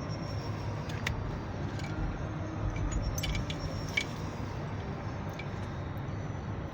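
Car driving slowly, heard from inside the cabin: a steady low road rumble with a few light metallic clinks, like keys jingling.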